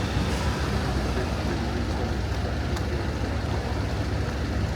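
Steady low rumble of city road traffic, with indistinct voices of people nearby.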